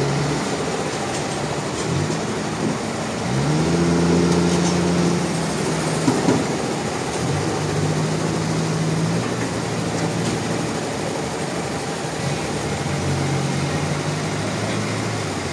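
An engine running over steady machine noise. Its pitch rises about three seconds in and holds, then comes and goes at a lower pitch through the rest.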